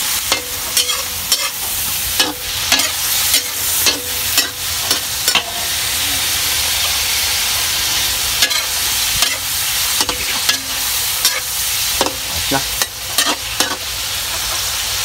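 Meat sizzling as it is stir-fried in a steel wok, with a metal spoon scraping and clinking against the pan in quick irregular strokes. The clinks thin out for a couple of seconds near the middle, leaving the steady sizzle.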